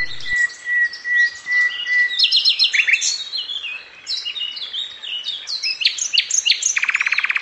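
Songbirds chirping and singing, many short calls overlapping. A long steady whistled note runs for about the first two seconds, and a fast buzzy trill comes near the end.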